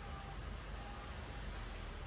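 Steady low hum and hiss of background noise, with no distinct event.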